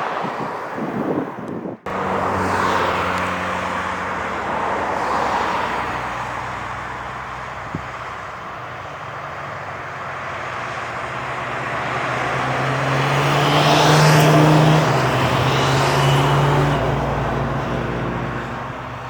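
Piston engine of a light propeller aircraft passing by: it grows louder to a peak about two-thirds of the way through, then fades. The sound cuts out briefly about two seconds in.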